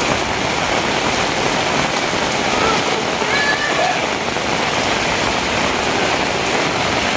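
Heavy rain falling steadily, a dense even hiss without letup.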